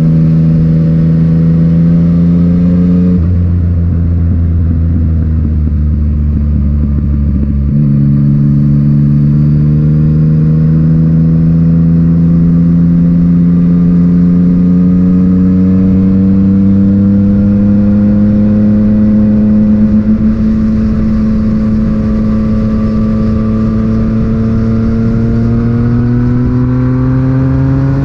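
Yamaha MT-09's three-cylinder engine running through an Akrapovic titanium exhaust, heard onboard. Its pitch drops about three seconds in and stays low for a few seconds, then picks up again and rises slowly and steadily for the rest of the stretch.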